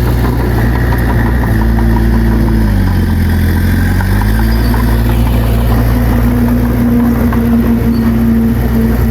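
Heavy earthmoving machine's diesel engine running steadily; its pitch sags about three seconds in and climbs back about a second later.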